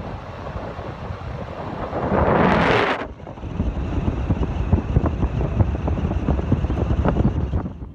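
Road and wind noise of a car being driven, a steady rumbling hiss. About two seconds in a whoosh builds and then cuts off abruptly about a second later.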